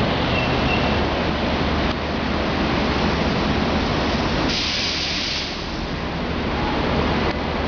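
Tokyo Metro 7000 series electric train running slowly into the platform and braking to a stop. About four and a half seconds in, a hiss of air lasts about a second.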